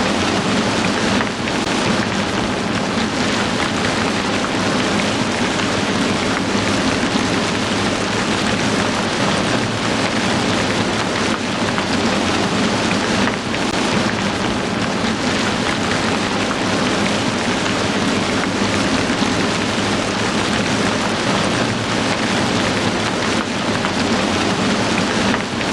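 Heavy rain falling steadily, a dense even hiss of countless drops without a break; it cuts off suddenly at the very end.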